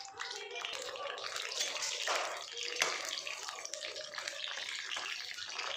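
Whole slit eggplants frying in hot oil in a kadhai: a steady sizzle full of small crackles and spatters, swelling to a louder burst about two seconds in. A metal slotted spoon turning them knocks against the pan just before the three-second mark. The cook puts this spattering down to the water held in rainy-season vegetables.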